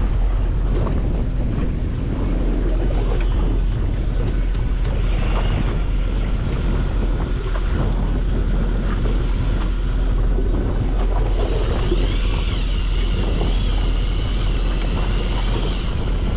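Wind buffeting the microphone on a small boat at sea, over a steady low rumble. A high whine that wavers up and down in pitch joins in about eleven seconds in.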